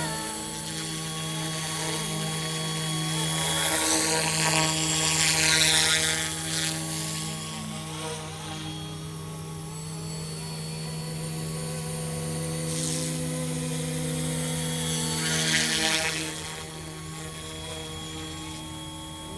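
Small brushless-motor RC helicopter (Eachine E188) in flight: a steady rotor hum and whine that grows louder and sweeps in pitch as it passes close, once about four to six seconds in and again near fifteen seconds.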